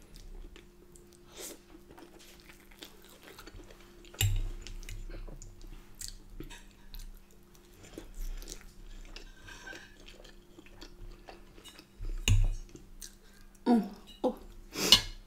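Close-miked chewing of soft, soggy food (corned beef hot pot and Yorkshire pudding), with small wet mouth clicks. There are a few louder knocks and clicks, including a fork against the plate near the end.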